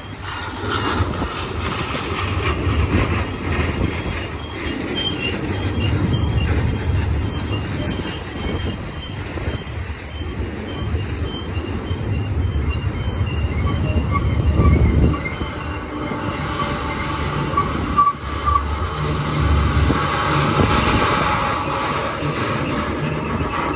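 Intermodal freight train of trailers and containers rolling past, a steady rumble of cars over the rails that swells and eases. Thin high squeals from the wheels come and go above it.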